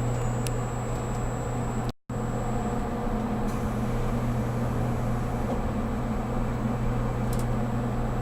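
Steady interior hum in the passenger cabin of a JR Kyushu 783 series electric train, a low even drone with a faint high whine over it. A few faint clicks are heard, and the sound drops out completely for a split second about two seconds in.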